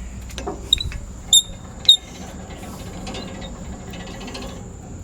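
Metal clicking and clinking from a MechMaxx sawmill as it is set up for a cut: three sharp, ringing clinks in the first two seconds, over a low steady hum.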